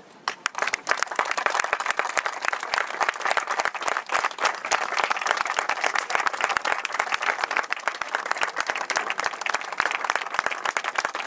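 A large crowd applauding, the clapping building up in the first second and then holding steady.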